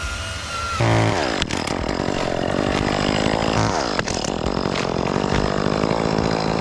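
Chainsaw running loudly from about a second in, cutting, its engine pitch dropping several times as the chain loads up in the wood.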